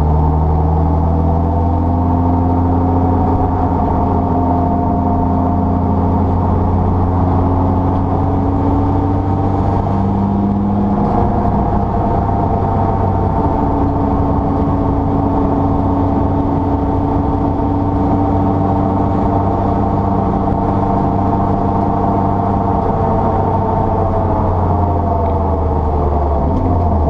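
Mitsubishi Lancer Evo 6 Tommi Mäkinen Edition race car's turbocharged four-cylinder engine running hard on track, its pitch slowly rising and falling, with a clear shift about eleven seconds in.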